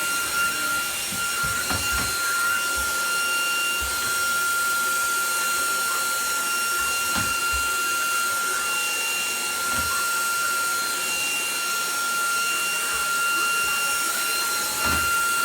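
Vacuum cleaner running steadily, a constant high whine over a rushing hiss, with occasional low knocks as it is moved about.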